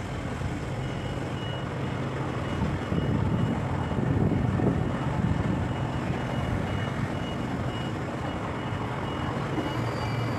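Heavy engine running steadily, with a high-pitched warning beeper sounding over it about twice a second.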